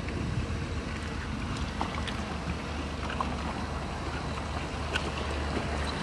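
Diesel engine of heavy earthmoving equipment running steadily with a low rumble, with scattered small clicks and clinks over it.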